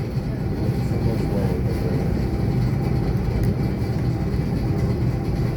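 Steady low rumble of an ET2 electric multiple-unit train, heard from inside the train.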